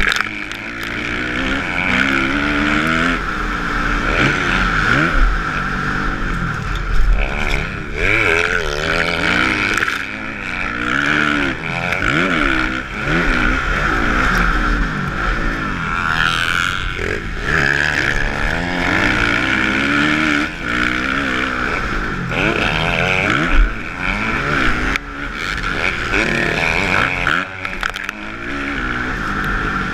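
Kawasaki motocross bike's engine revving hard and easing off again and again as it is ridden around a dirt track, its pitch repeatedly climbing and falling with throttle and gear changes.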